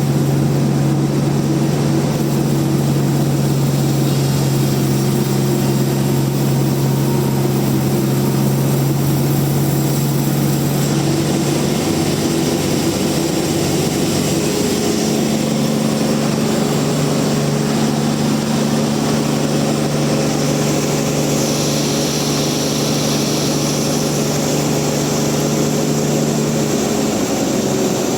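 Large log bandsaw mill running steadily with a loud mechanical hum and a hiss over it, its tone shifting slightly about halfway through.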